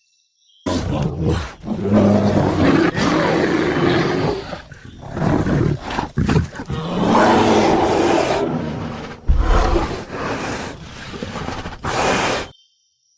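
Big cat roaring and growling in a run of long, deep calls with short breaks between them, starting about a second in and stopping just before the end.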